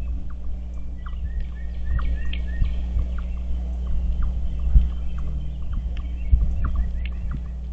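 Outdoor feeder ambience: small birds give short high chirps and calls over a steady low rumble, with several dull low thumps.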